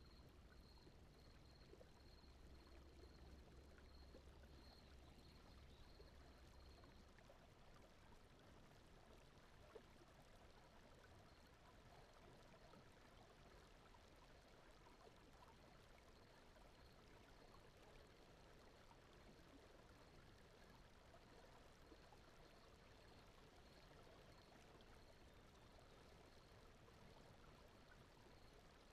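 Faint, steady rushing noise with a water-like texture, the background sound bed of a sleep recording. A faint, high, evenly pulsing tone and a low hum sit underneath for the first seven seconds or so, then fade out.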